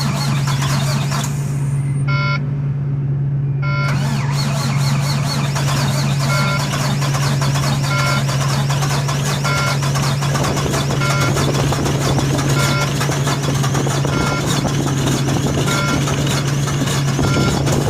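Volvo semi truck's diesel engine cranking over on a cold start in 2-degree weather, not yet running on its own. A warning beep from the truck repeats about every second and a half through the second half.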